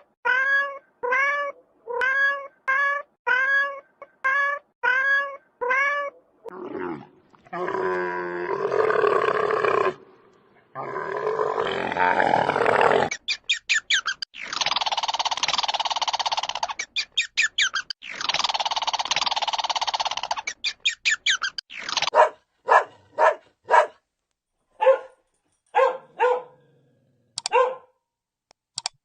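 Several animals calling in turn. First comes a run of short pitched calls, about two a second. Then two long rough growling calls, then fast pulsing calls, and near the end a string of short, sharp, bark-like calls.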